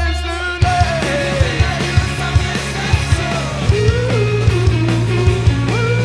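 Indie rock band playing live with a sung lead vocal, electric guitar, bass and drums; a short gap in the playing ends about half a second in and the full band comes back in on a drum hit.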